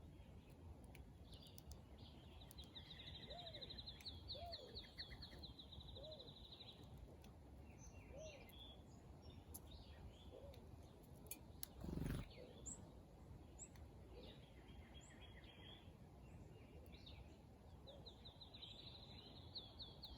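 Wild birds singing faintly over a steady low background hum. A fast, high trill runs for several seconds early on and returns near the end, while a softer, lower call repeats about once a second. A brief low thump about twelve seconds in is the loudest sound.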